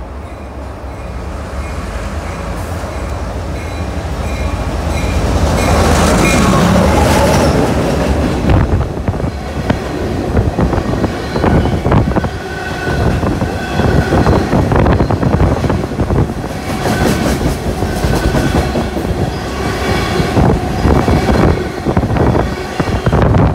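Freight train approaching and passing close by, its locomotive growing louder over the first several seconds. The freight cars then roll past with a continuous clatter of wheels knocking over rail joints.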